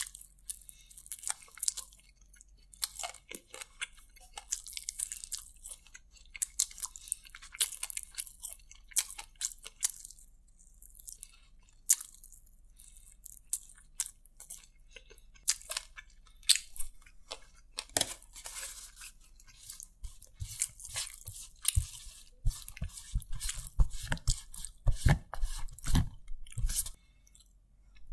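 Close-miked chewing and crunching of deep-fried chicken lollipop, full of sharp wet mouth clicks and crackles. A run of heavier low thuds comes in near the end.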